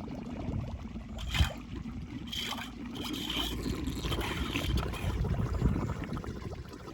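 Flood water draining and splashing in a steady low rush, with one sharp knock about a second and a half in.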